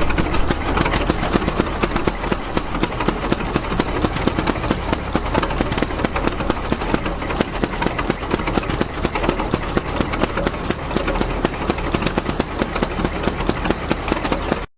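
Antique gas engine running steadily with a fast, even firing rhythm; the sound cuts off suddenly near the end.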